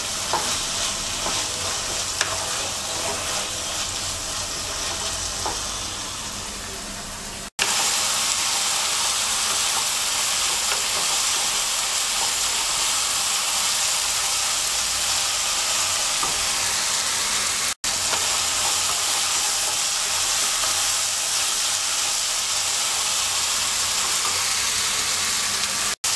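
Chicken and vegetables sizzling as they stir-fry in a nonstick karai, with a wooden spatula scraping and tossing them. The sizzle cuts out abruptly for an instant twice and is a little louder after the first break.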